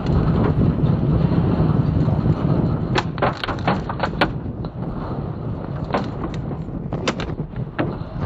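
Storm-force wind buffeting a car: a loud, steady rushing noise. Sharp knocks and bangs of things striking the car body come in a cluster about three to four seconds in and again in the last few seconds.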